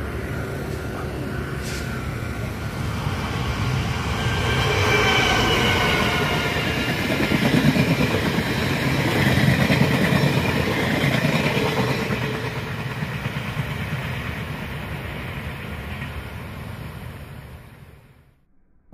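Ming-Ri tourist train, a locomotive-hauled passenger train, running past close by. The rumble grows louder toward the middle and dies away near the end.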